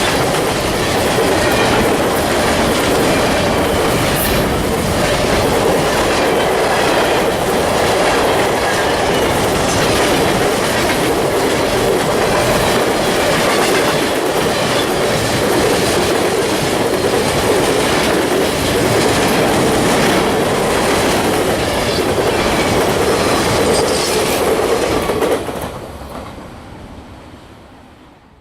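Freight train cars rolling past at speed, a steady rumble with wheels clicking over rail joints. The sound fades away near the end.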